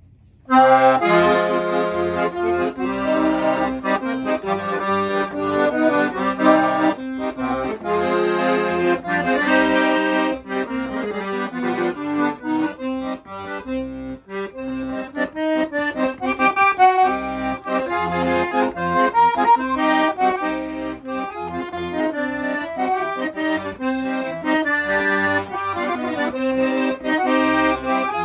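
Weltmeister half-size piano accordion with 26 treble keys and 40 bass buttons, playing a tune: a melody over chords, with bass notes pulsing underneath. It starts about half a second in.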